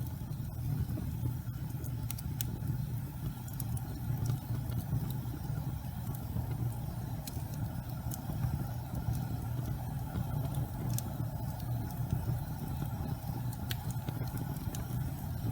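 Gas fireplace burning: a steady low rumble of flame with scattered sharp crackles and ticks.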